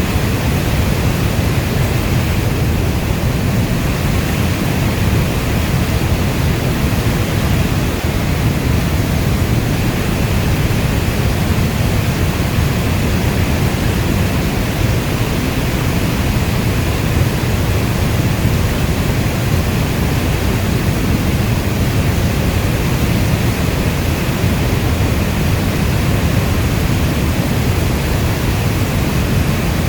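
Steady heavy rain: a dense, even wash of sound weighted toward a low rumble, with no single drops or events standing out.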